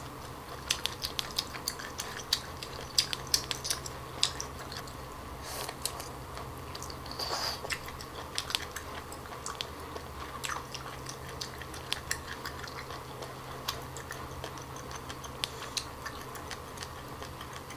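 Close-up chewing of cooked octopus tentacle: a run of small, crisp mouth clicks as the firm, crunchy flesh and suckers are bitten and chewed.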